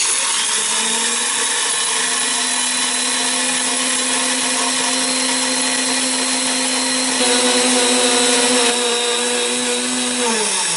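High-speed tabletop mill running, grinding dried acorns into powder: a loud, steady motor whine over a dense grinding rush, switching on abruptly at the start. Near the end its pitch falls as the motor slows.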